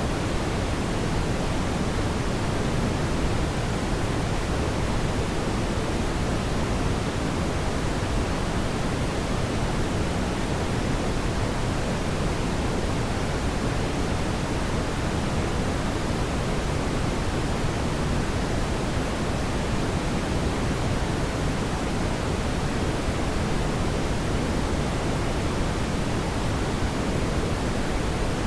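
Steady, even rushing noise, fuller in the low end, with no crackles or pops.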